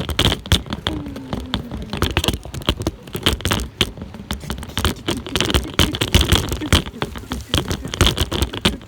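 Bicycle rattling and scraping over a rough, stick-strewn path: a dense, irregular run of clicks and knocks.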